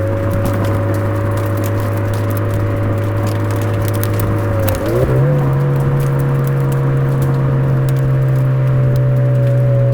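Suzuki Swift Sport ZC33S's turbocharged four-cylinder engine, heard through its Fujitsubo aftermarket exhaust, running at a steady speed. About five seconds in comes a quick gear change, a downshift: the sound dips briefly, then settles at higher revs and holds steady.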